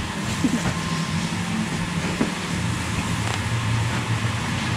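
Train rumbling steadily with a low hum, with a few faint clicks and knocks.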